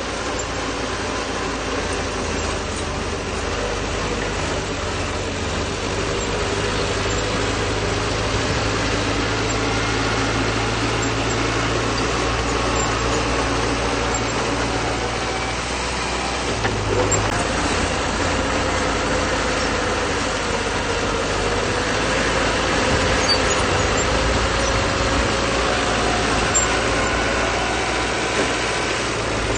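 BD2H bulldozer's diesel engine running steadily as the dozer works, its note shifting and climbing a little in the second half.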